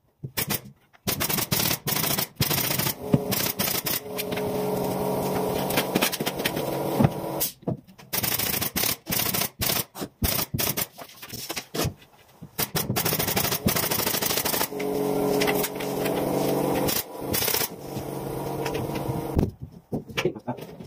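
Carpentry power tools at work: rapid, irregular sharp clicks and knocks throughout, with a tool motor running steadily twice for a few seconds.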